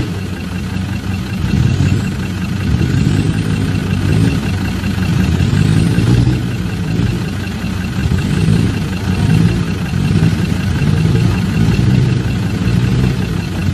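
Off-road 4x4 engine running, its revs swelling and easing repeatedly.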